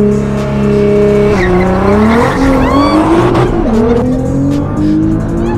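Nissan GT-R's twin-turbo V6 held at steady high revs for about a second, then launching hard: revs dip and climb, drop at a gear change a few seconds in, and climb again to another change near the end. A brief high squeal sounds around the three-second mark.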